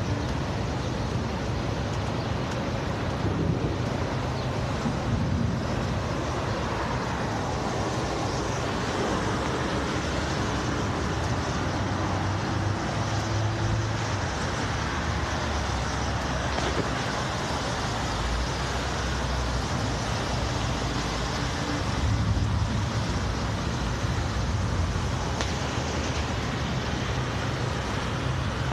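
Steady road traffic noise: vehicle engines running and tyres on the road, with a few slow rises and falls in pitch as vehicles go by.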